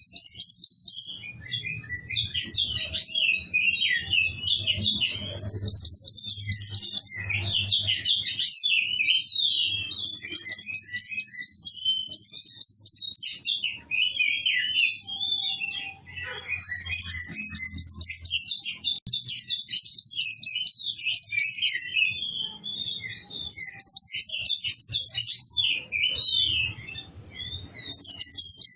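Kowul songbird singing a lively, unbroken song: fast, high, buzzy trills lasting a second or two each, alternating with quick twittering chirps, over a faint low hum.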